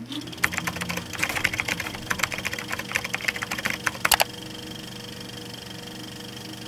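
Rapid, irregular keystroke clicks, like fast typing on a keyboard or typewriter, for about four seconds, then a steady hum with a thin high tone underneath.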